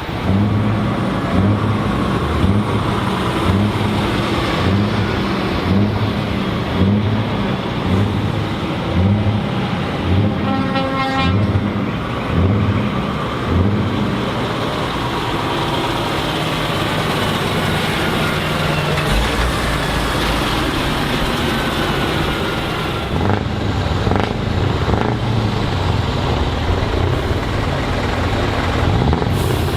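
Heavy trucks driving in with their engines running, and a pitched horn toot about ten seconds in. Over the first half a low tone pulses about every two-thirds of a second.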